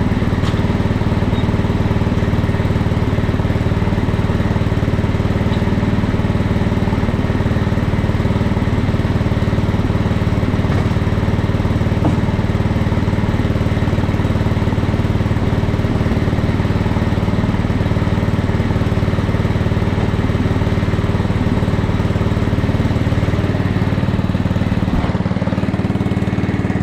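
Small engine of a ridden utility vehicle running steadily at a constant pace while being driven in a low gear. The deepest part of the engine rumble drops away near the end.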